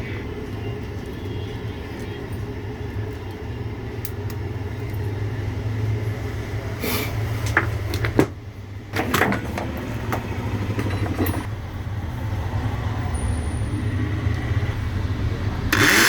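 A steady low hum, with a few clicks and knocks of handling partway through. Near the end the angle grinder's motor is switched on and spins up with a rising whine: a test run through the series test wire after its switch was replaced.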